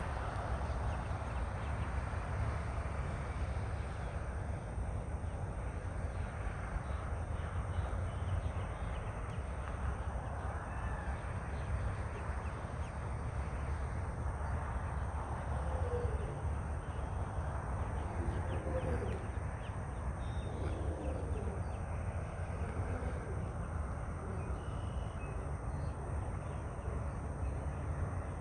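Birds giving a few short, harsh cawing calls, mostly in the second half, over a steady low background rumble.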